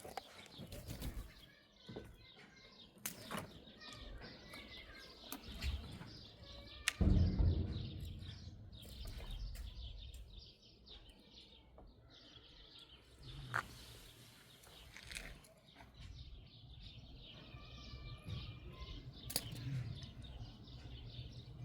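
Scattered clicks and knocks from handling, with one heavy low thump about seven seconds in, over faint chirping.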